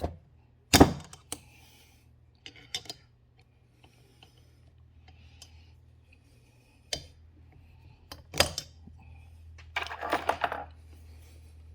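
Metal tool clicking and scraping against the valve gear of a motorcycle-style cylinder head while prying at a stubborn valve stem seal. A few sharp metallic clicks, the loudest about a second in, and a short rattling clatter near the end.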